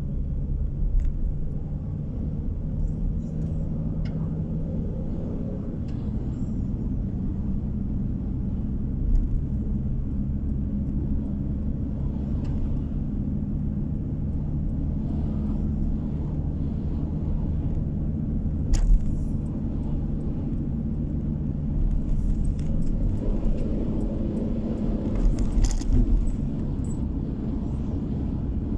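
Steady engine and road noise of a car driving, heard from inside the cabin, with a few light knocks and rattles, the sharpest about two-thirds of the way through.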